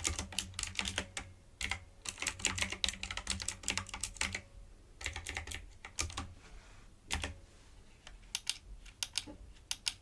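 Typewriter-style keyboard being typed on: fast runs of key clicks for the first few seconds, then thinning to a few scattered keystrokes with short pauses between them.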